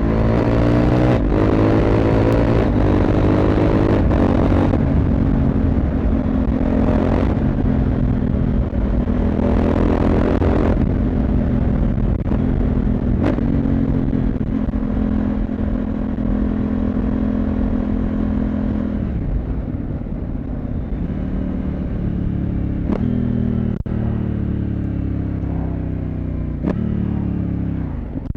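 CFmoto 800MT parallel-twin motorcycle engine and exhaust under way. The revs climb over the first couple of seconds and hold fairly steady through the middle, with a few short sharp clicks. Over the last several seconds the revs fall away as the bike slows.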